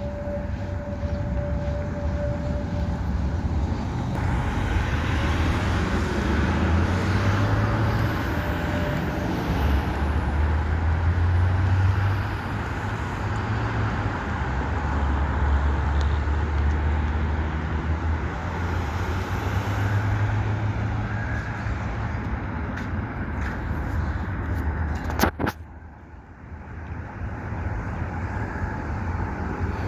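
Steady low rumble of vehicles and traffic noise, with a faint steady tone in the first few seconds. One sharp click about 25 seconds in, followed by a brief dip in the noise.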